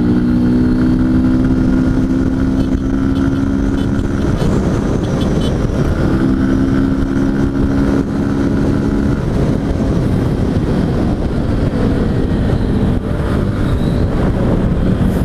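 Honda Bros 160 single-cylinder engine running under way with the cap of its air-filter cover removed, giving a steady intake drone at cruising revs over heavy wind rumble on the helmet microphone. The drone drops out about four seconds in, returns about two seconds later, and fades under the wind after about nine seconds.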